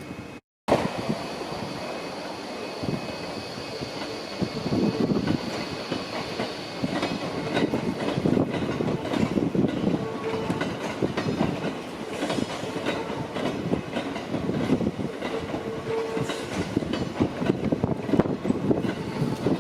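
Electric commuter train running on rails, with rolling noise and clatter over the rail joints, cutting in abruptly just under a second in. A faint steady whine is heard for the first few seconds.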